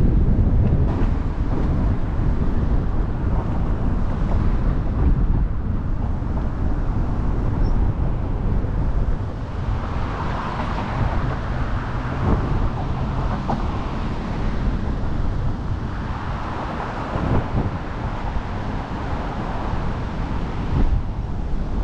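Wind buffeting the microphone with a heavy, steady low rumble, over an outdoor hiss that swells twice, about ten seconds in and again about seventeen seconds in.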